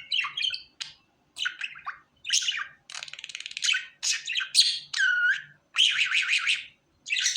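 Pet budgerigar chirping and warbling in quick bursts, with a short buzzy chatter about three seconds in and a swooping whistle about five seconds in.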